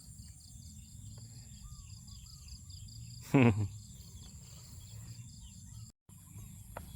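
Insects chirring steadily in high, pulsing trills over a low rumble, with one short falling vocal exclamation about halfway through and a brief dropout near the end.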